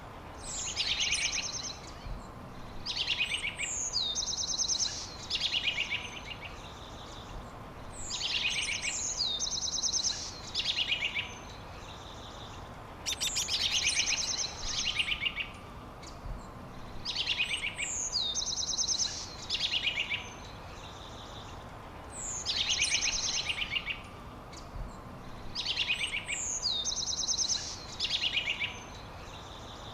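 A songbird singing repeated short, high phrases of rapid trills with a downward-sliding whistle, a new phrase every couple of seconds, over a steady low background hiss.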